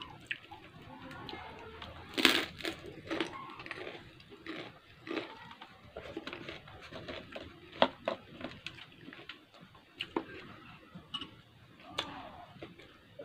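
Close-up eating sounds: irregular crunching and chewing of crisp fried chicharon and lumpia, with cucumber, the loudest crunch about two seconds in.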